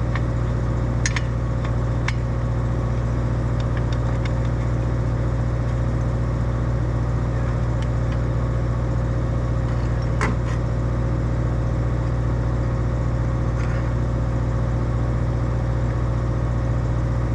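Excavator's diesel engine running steadily at a low, even pitch, with a few short sharp metallic clicks or clanks about a second in, two seconds in and near the ten-second mark.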